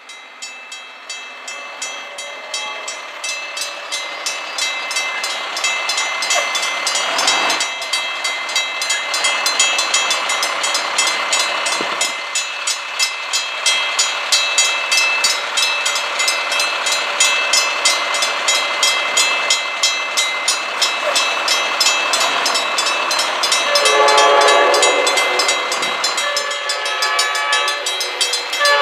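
Railroad crossing bell ringing in a steady rhythm of strikes while a commuter train approaches, the train noise swelling over the first ten seconds. Near the end the locomotive's horn sounds in two blasts.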